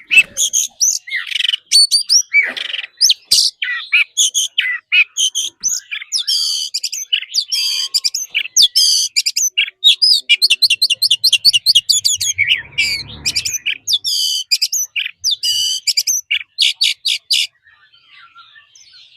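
Oriental magpie-robin singing a loud, varied song of whistles, chirps and quick trills, which stops abruptly near the end, leaving only faint chirping.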